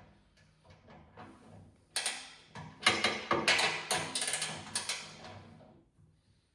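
Ratchet wrench clicking in quick runs as bolts are worked, dying away about six seconds in.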